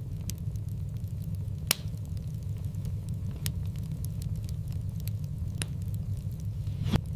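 Wood fire burning in a fireplace: a steady low rumble of flames with scattered crackles and sharp pops, the loudest pops about two seconds in and near the end.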